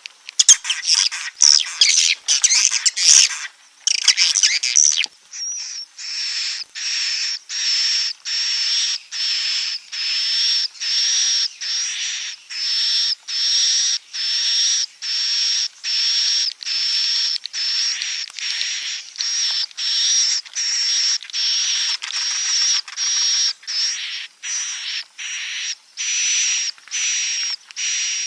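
Swiftlet roosting calls of the kind played in swiftlet houses to lure the birds to stay: a dense, loud run of overlapping chirps for the first five seconds or so, then a regular string of high, repeated calls about one and a half a second.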